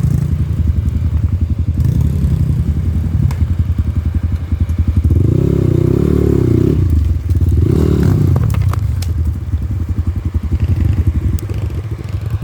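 Dirt bike engine running at idle and revved twice, about five and eight seconds in. The riders put its trouble down to misfires at the spark plug.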